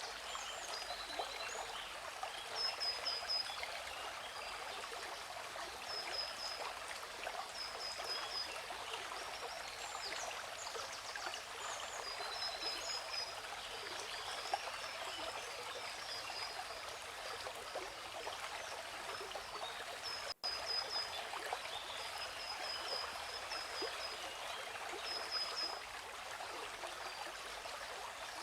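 Steady rushing water of a waterfall, with birds chirping in short, high, repeated calls every second or two. The sound drops out for an instant about two-thirds of the way through.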